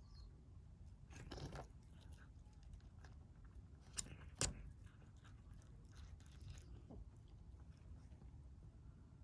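Kittens eating: faint chewing, with two sharp clicks about four seconds in.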